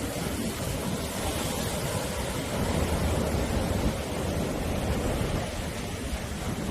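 Sea surf washing on the shore: a continuous rush of waves with a low rumble, swelling a little about three seconds in.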